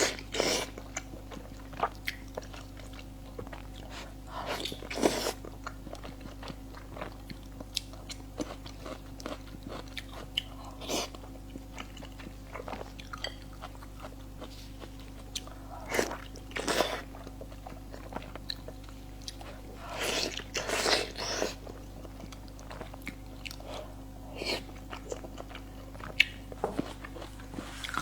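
Close-miked eating of spicy pig brain: wet bites and chewing in scattered bouts a few seconds apart, over a steady low hum.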